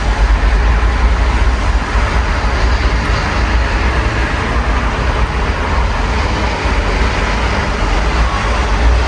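Steady rain heard through an open window, over a constant low rumble of city traffic.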